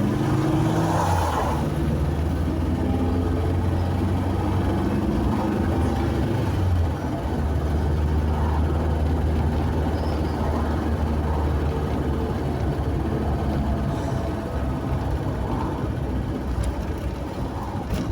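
Car engine and road noise heard from inside the cabin while driving at a steady speed. The engine hum drops briefly about seven seconds in, then settles back.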